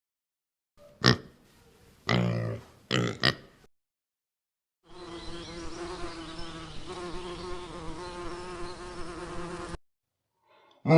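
A few short animal calls, then a steady buzzing from a flying insect that runs for about five seconds and stops suddenly.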